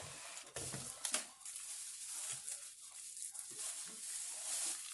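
Paper takeout bags and cardboard food boxes rustling and crinkling as food is unpacked, with a few small clicks and knocks about a second in.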